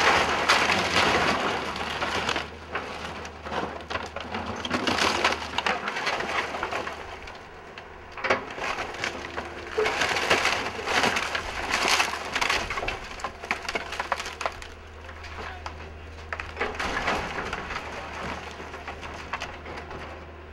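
Wooden building being torn down by an excavator: irregular bursts of splintering and crushing wood over a steady low hum.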